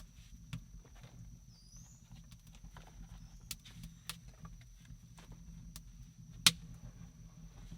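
Scattered sharp clicks and snaps at irregular intervals, one much louder about six and a half seconds in, over a steady high-pitched tone and a low rumble.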